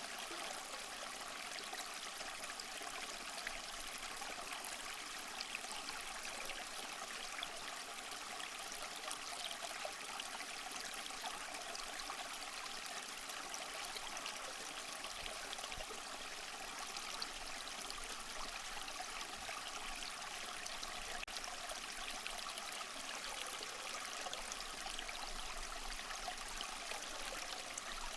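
Small waterfall splashing and trickling steadily over mossy rocks, a constant bright rush of water with little low rumble.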